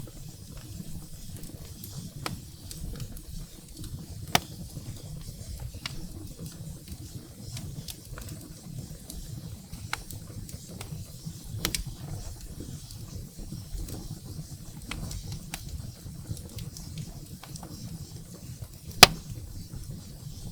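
Firewood burning in a fireplace: a steady low rumble of flames with scattered sharp crackles and pops, the loudest pop about four seconds in and another near the end.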